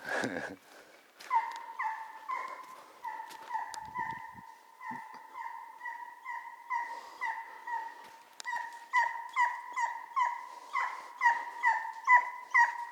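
An animal's repeated whining cries, pitched and about two to three a second, growing faster and louder toward the end.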